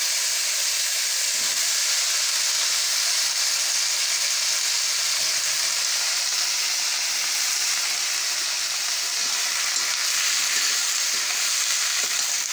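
Freshly washed, still-wet pumpkin pieces sizzling steadily in hot oil in a kadhai: an even frying hiss that does not let up.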